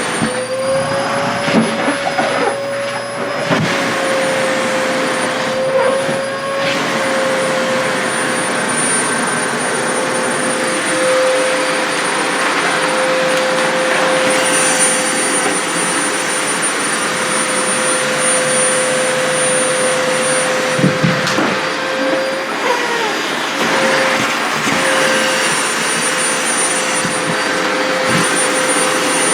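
Sharp EC-KP7F-A vacuum cleaner running steadily with a constant whine and rush of air. Short knocks and rustles come and go in the first few seconds and again about 21 seconds in, as the organza skirt is drawn against the nozzle.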